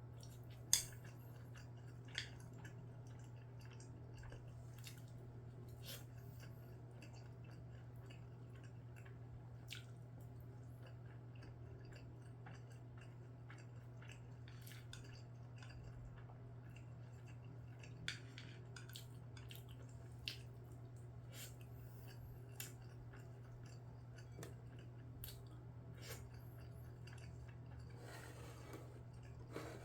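A person eating rice and scrambled eggs: faint chewing with scattered sharp clicks of utensils on a dish, the loudest about a second in, over a steady low hum.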